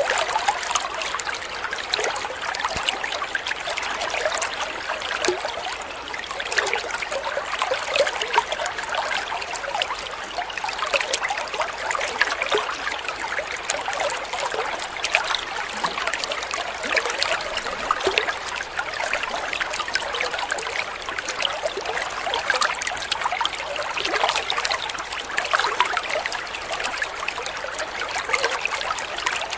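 Flowing water trickling and babbling steadily, like a small stream over stones.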